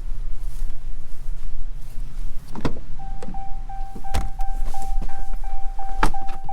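A vehicle's warning chime beeps steadily about three times a second, starting about three seconds in. Several sharp clicks and knocks, like door or latch handling, sound over a low steady rumble.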